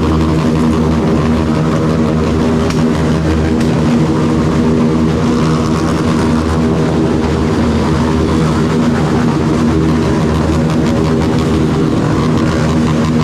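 Motorcycle engine, a single-cylinder Yamaha Lander 250, running steadily at an even cruising speed, its pitch holding nearly level.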